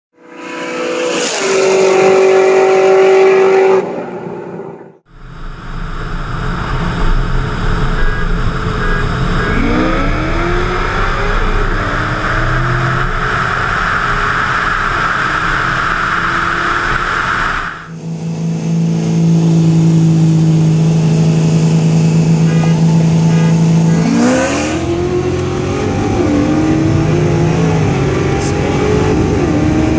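Supercharged V8 cars accelerating hard side by side, heard from inside one of the cars: engine note climbing through the gears, with a high supercharger whine building until it cuts off. Several short clips spliced together, with abrupt breaks.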